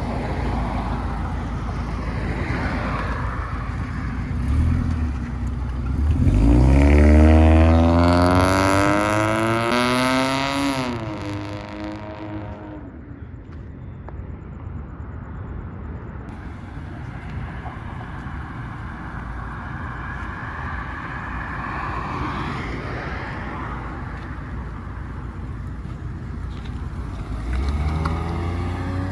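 Car engine accelerating hard, its pitch climbing for several seconds about six seconds in before it drops and fades away; another engine rumbles at idle near the end.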